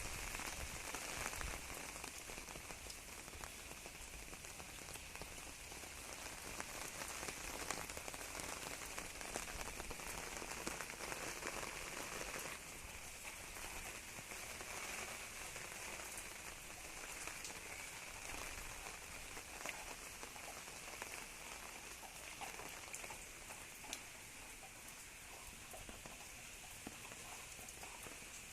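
Heavy rain falling steadily, an even hiss of rain with a few single drop strikes standing out.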